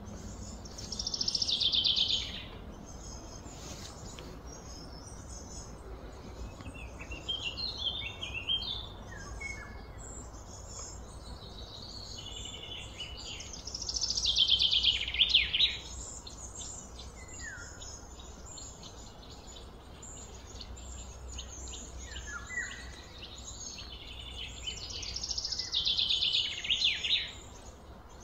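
A bird singing: three loud phrases of quickly falling high notes, about twelve seconds apart, with softer chirps between, over a steady low rumble.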